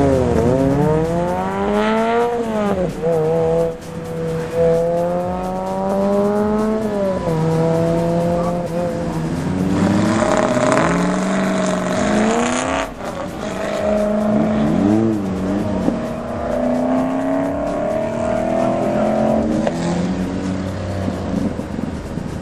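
Sports-car engines on an autocross course, their pitch rising and falling again and again as the cars accelerate and lift between cones. A louder, hissier rush about ten to thirteen seconds in as a car runs close by.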